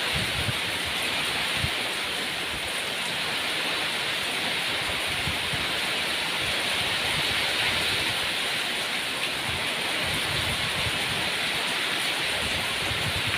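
Steady rain falling, an even hiss with scattered low patters of drops.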